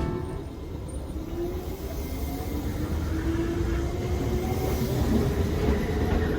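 Nankai 2200 series Tenku train running on the rails, a steady low rumble with a faint tone that rises slowly in pitch.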